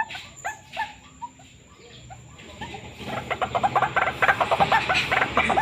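White-breasted waterhen calling: a few scattered short notes, then about three seconds in, a loud, fast run of repeated croaking notes.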